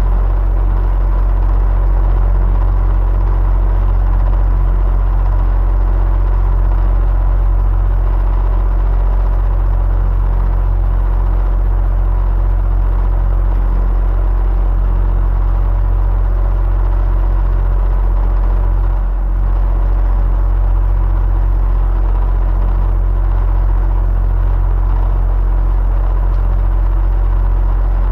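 Electric fan running steadily, a deep, even motor rumble with a faint steady hum over it.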